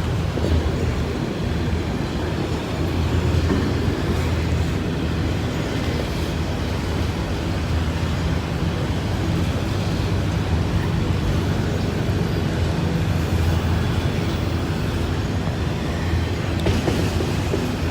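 Freight train cars rolling past close by: a steady noise of steel wheels running on the rails, with a constant low drone beneath it.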